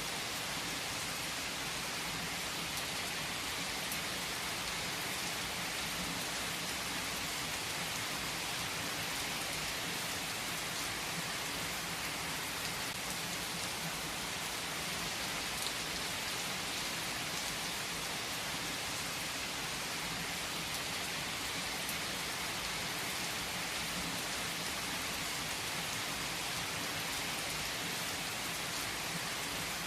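Steady rain falling, a dense, even hiss that does not let up or change.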